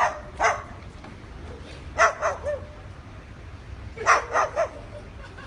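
Cockatoo imitating a dog's bark: short barks in three bunches about two seconds apart, two or three barks each.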